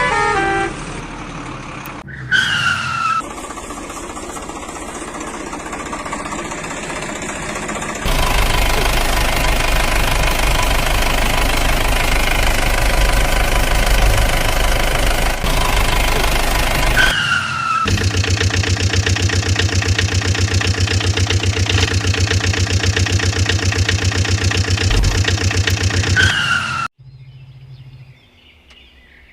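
Diesel engine sound effects for heavy vehicles, running with a fast, steady low pulse, in several stretches that start and stop abruptly. A short falling tone sounds about two seconds in and again in the middle, and the engine cuts off suddenly near the end.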